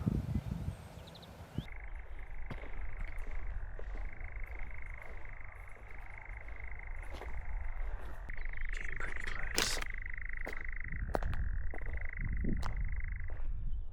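European nightjar churring: one long, mechanical, frog-like trill that begins about a second and a half in and runs almost to the end, stepping between a higher and a lower pitch several times. Scattered clicks and knocks and a low rumble of handling noise run under it.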